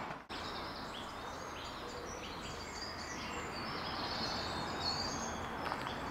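Woodland birdsong: several small birds chirping and warbling, over a steady background hiss of outdoor noise.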